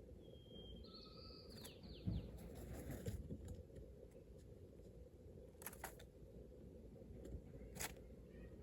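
A short bird call: a few whistled notes and quick downward slurs about a second in, over faint outdoor background, followed by a few soft clicks.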